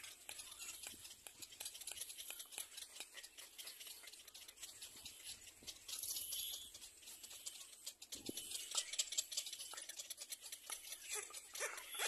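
Faint, irregular high-pitched bird calls and chatter with scattered fine clicks, a little louder about six seconds in and again around nine seconds.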